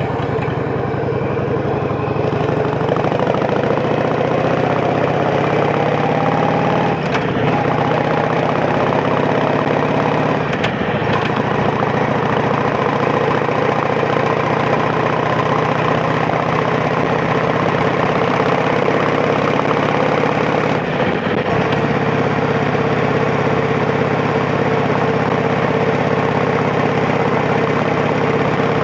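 Yamaha Drag Star 1100's air-cooled V-twin engine running steadily, with a few brief dips where the sound breaks and shifts.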